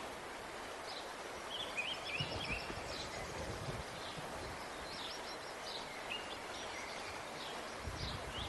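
Small birds chirping in short, repeated high calls over a steady outdoor background hiss.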